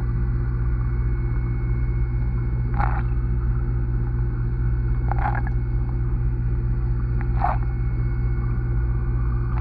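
A steady low hum made of several held tones, with a short higher burst about every two and a half seconds, four times.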